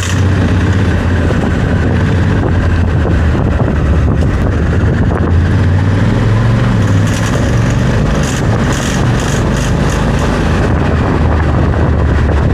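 Honda Africa Twin CRF1100L parallel-twin engine running on the move, with wind rushing past the microphone. About seven to ten seconds in comes a run of short, sharp clatters, the strange noises that the owner suspects come from the crash bars or skid plate.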